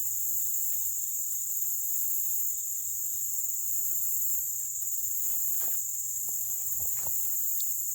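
Steady high-pitched insect chorus, with a few soft knocks and rustles of fishing gear being moved about five to seven seconds in.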